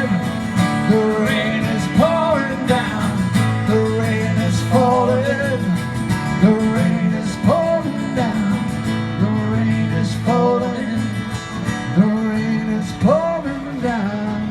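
Acoustic guitar music: an instrumental passage of a live folk-blues song, with a melody whose notes slide up into pitch over a steady low accompaniment.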